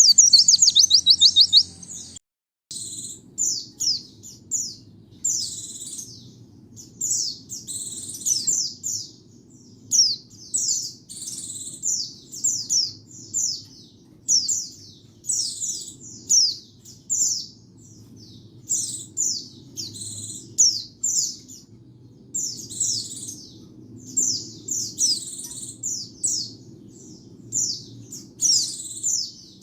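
White-eye (pleci) singing. It opens with a fast, loud trill, then keeps up high, quick twittering phrases of short down-slurred notes with brief pauses between them. A faint steady low hum runs underneath.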